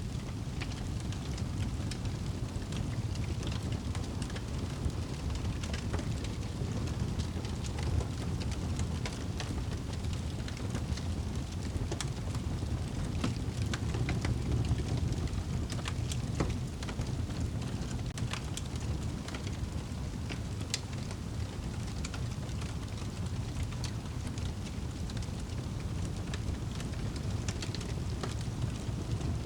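Wood fire burning in a fireplace: a steady low rumble with frequent sharp crackles and pops scattered irregularly throughout.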